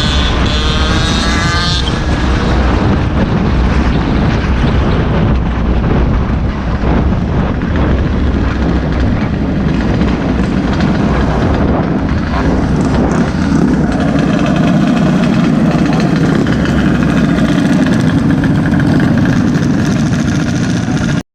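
Small gas engine running on the move, its pitch rising over the first two seconds, with a steady rushing noise over it throughout; the sound cuts off abruptly at the very end.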